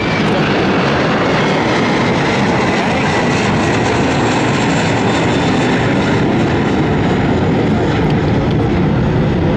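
Loud, steady roar of a jet airliner's engines close by, building just before and then holding even.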